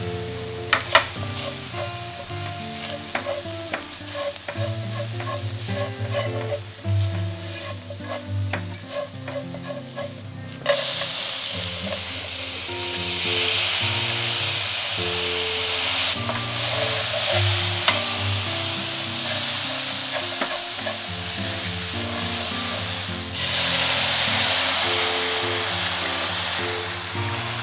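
Onions and curry powder frying in a stainless steel sauté pan, stirred with scraping clicks. About ten seconds in, soaked pearl barley and split peas tipped into the hot pan set off a sudden loud sizzle that goes on while they are stirred. Soft background music plays underneath.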